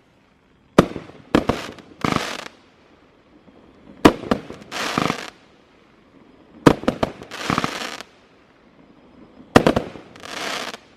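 16-shot firework cake firing its shells one after another, about every three seconds: each a sharp launch crack followed about half a second later by a crackling burst in the air. Four shots go off.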